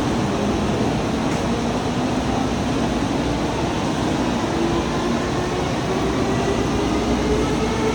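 Shinkansen train noise, a steady rumble and rush, with a faint whine slowly rising in pitch from about halfway through.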